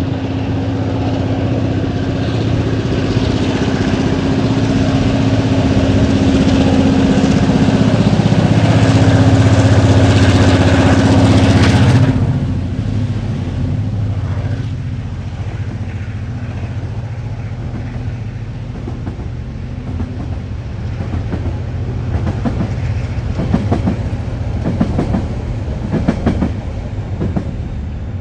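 TasRail DQ class diesel locomotive under power hauling a freight train past, its engine loud and steady, building to a peak and then dropping away suddenly about twelve seconds in. After that come the quieter rolling and clattering knocks of the wagons passing over the rails.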